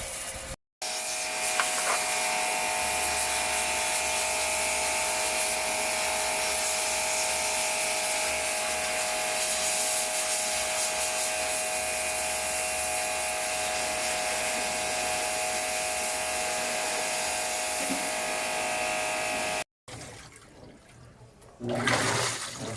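A small electric motor running steadily, a constant whine over a hiss. It begins abruptly about a second in and cuts off abruptly a few seconds before the end, leaving quieter, softer sounds.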